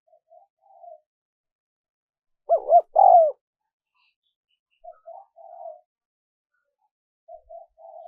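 Spotted doves cooing in short repeated phrases. One loud phrase of arching notes comes about two and a half seconds in; the other phrases are much fainter.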